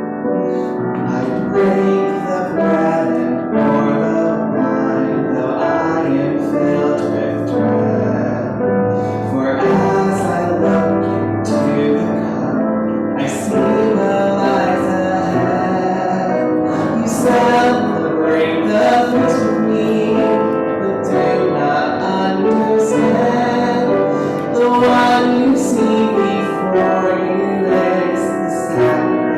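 Piano music playing steadily, a live instrumental piece.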